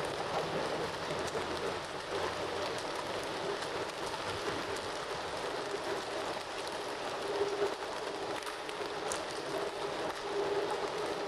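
Campfire burning with a steady dense crackle and scattered sharper pops.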